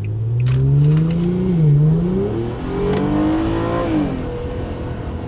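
Modified Infiniti G35's 3.5-litre V6 under hard acceleration, its revs climbing, dipping briefly at a gear change about one and a half seconds in, climbing again, then falling away about four seconds in and settling.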